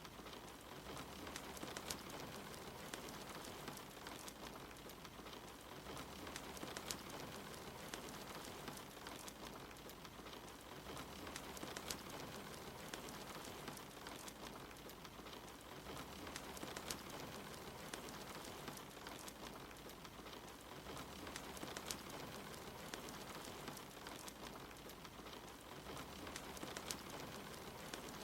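Steady rain mixed with a crackling wood fire, with sharp pops from the fire scattered throughout.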